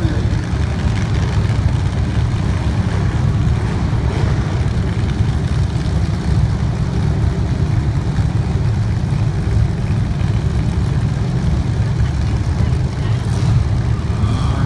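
Race car engines running together in a steady low rumble.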